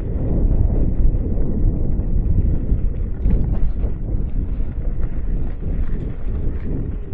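Wind buffeting the microphone in a heavy, steady low rumble, with faint ticks and rattles showing through from about three seconds in.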